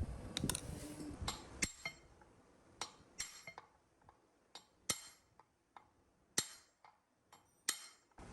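Small metal parts clinking and tapping against each other as they are handled, about fifteen irregular sharp clicks, each with a short ring. A low handling rumble runs under the first second and a half.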